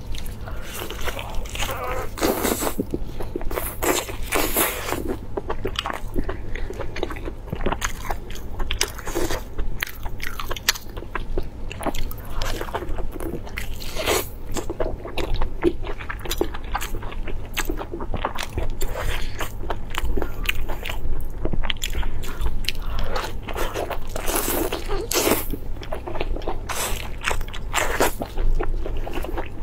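Close-up eating sounds of a person biting and chewing braised sheep intestine stuffed with meat: a dense, irregular run of mouth clicks and smacks over a steady low hum.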